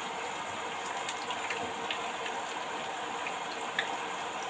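Beetroot leaves frying in hot oil in a pan: a steady sizzle with small scattered crackles.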